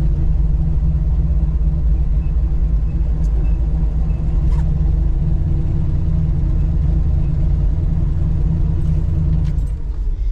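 Big-block V8 of a 1966 Chevelle SS running at low speed, heard from inside the cabin as the car creeps along; a steady, deep rumble that falls away near the end.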